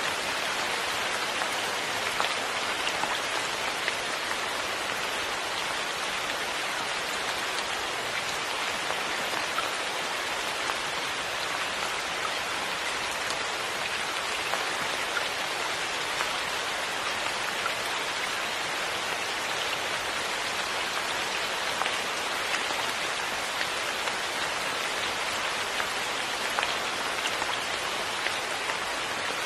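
Steady rain falling: an even, continuous hiss with many small scattered drop ticks.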